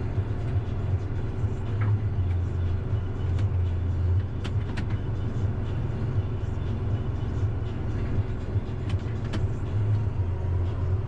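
Tractor engine running steadily, heard from inside the cab as a loud low drone, with a few light clicks and knocks from the ride over rough ground.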